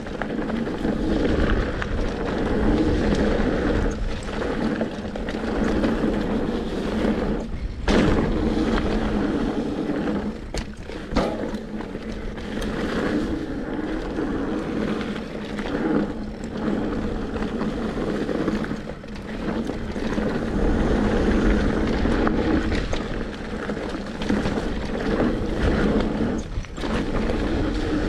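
Mountain bike rolling down a dirt trail: a steady rumble of tyres and wind on the microphone, broken by short knocks and rattles as the bike hits bumps.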